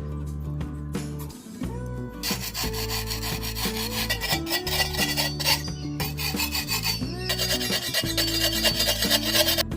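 Rough abrasive rubbing strokes, as in hand-working a piece of wood, starting about two seconds in and pausing briefly around the middle. Background music with plucked melody notes plays underneath.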